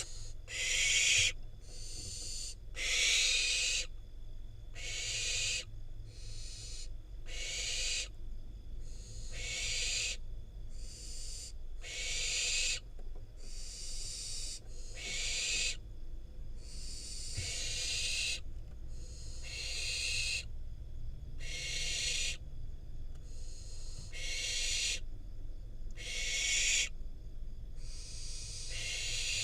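Barn owl nestlings giving their hissing, snoring begging calls, one rasping hiss about every second, on and on.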